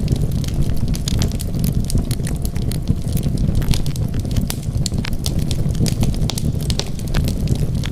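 Wood fire burning, with a steady low rumble of the flames and frequent sharp crackles and pops at irregular intervals.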